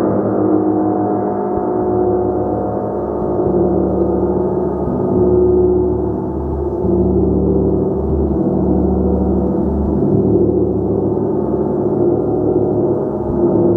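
A gong played continuously: a dense, sustained wash of many overlapping tones that swells and ebbs, with no separate sharp strikes standing out.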